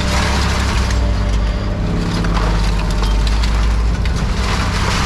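A machine's engine runs steadily while scrap is crunched and scraped, with a continuous crackling and grinding.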